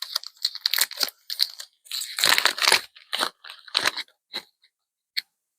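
Foil trading-card booster pack wrapper being handled and torn open: a run of crinkly, crackling rustles, the longest about two seconds in, dying away after about four and a half seconds.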